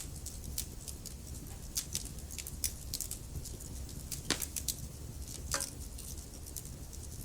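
Burning wood in a fireplace crackling: irregular sharp pops and ticks over a low steady rumble, with two louder pops a little after four seconds in and again about a second later.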